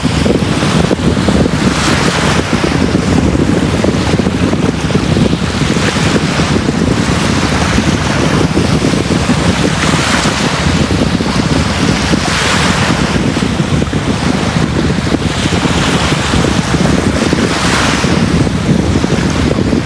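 Ocean waves breaking on a beach: a continuous low rumble of surf, with a hissing wash swelling up every few seconds as each wave breaks.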